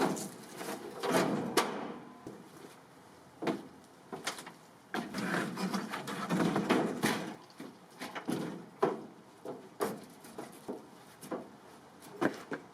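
Irregular knocks, clicks and rubbing of things being handled and moved about while cleaning out the old truck, with a longer stretch of scrubbing or rubbing about halfway through.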